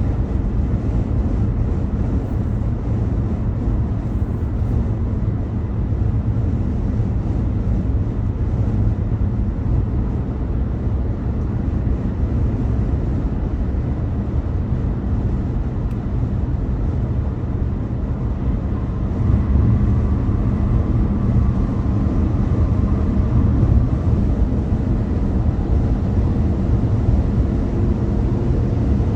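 Steady low rumble of a car on the move, its road and engine noise running throughout and growing louder about two-thirds of the way through.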